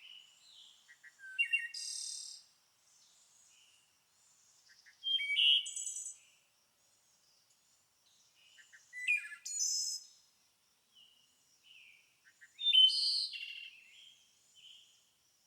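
Songbirds singing: four louder bursts of chirps and short trills about every three to four seconds, with quieter calls in between.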